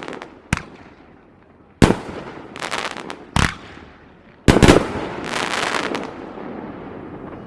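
Aerial fireworks bursting: sharp bangs about half a second, two, three and a half and four and a half seconds in, each followed by crackling, with the densest crackle in the last few seconds.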